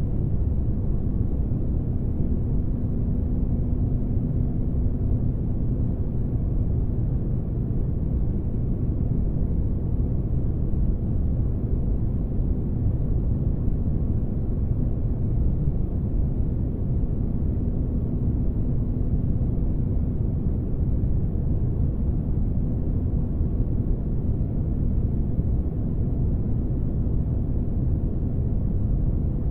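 Spaceship-interior ambience for sleep: a steady, deep rumble of noise with a faint low hum that fades in and out.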